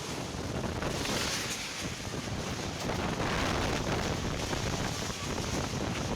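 Wind rushing and buffeting the microphone, a steady roar of noise that swells about a second in and eases off toward the end.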